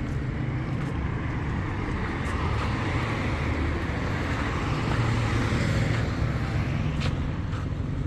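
Road vehicle noise: a steady low engine and tyre rumble, swelling slightly near the middle.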